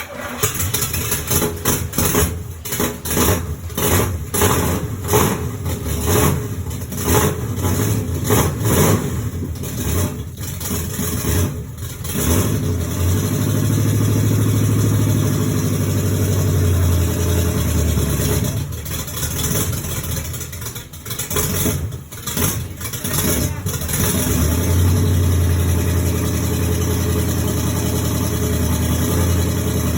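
Rebuilt Pontiac 400 V8 starting and running unevenly, surging and revving in fits for the first dozen seconds. It then settles into steadier running, with a rough patch near the middle before it steadies again.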